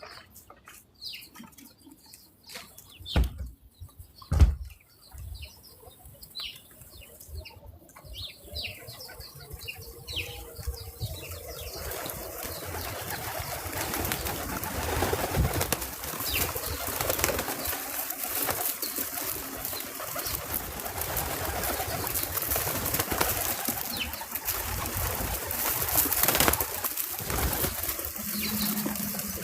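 Birds at a backyard feeder: two dull thumps and a few small chirps, then, from about twelve seconds in, a continuous fluttering rustle of wings.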